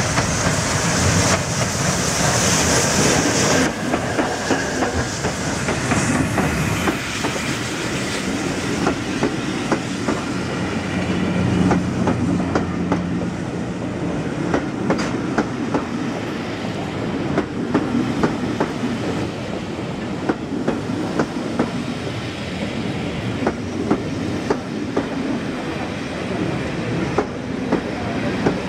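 Steam-hauled passenger train passing at speed: a loud hiss for the first few seconds, then the coaches' wheels clicking over the rail joints in a long, steady run of clickety-clack over a rumble.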